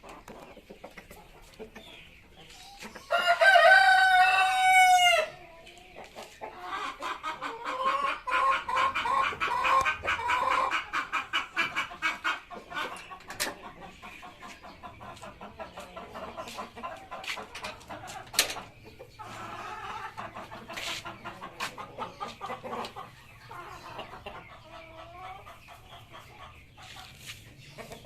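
Chickens: a rooster crows once, loudly, about three seconds in. Hens then cluck rapidly and repeatedly, with quieter clucking continuing later.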